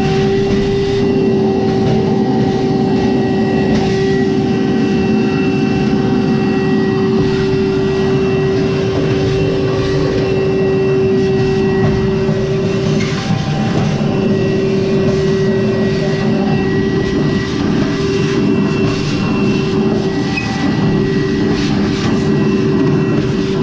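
Frigidaire electric clothes dryer running: the motor hums with a steady tone over a constant rumble from the turning drum.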